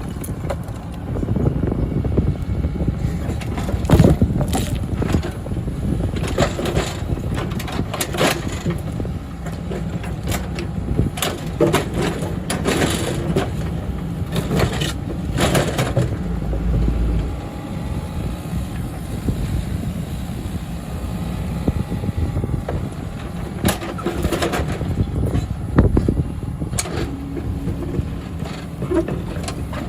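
Heavy earthmoving machinery working: a diesel engine running with a steady low rumble, over which come irregular sharp clanks and knocks, the strongest about four seconds in.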